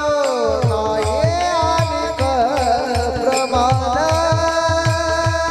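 Devotional kirtan singing: a voice holds and bends long notes of an abhang melody, sliding down about a second in and wavering later, over steady held tones from the accompanying instrument and a regular hand-drum beat.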